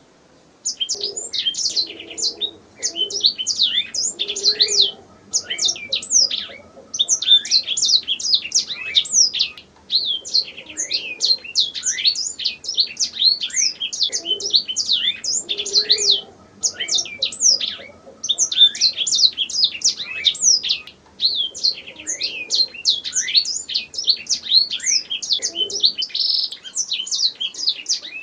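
Canary singing continuously: fast trills of quick, high, downward-sweeping notes in phrases a second or two long, separated by short pauses.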